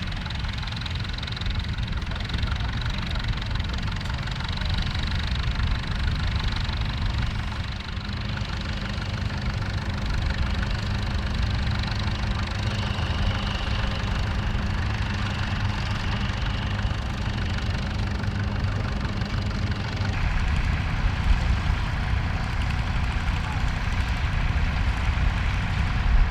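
Massey Ferguson tractor engine running steadily at work. Its note changes about twenty seconds in.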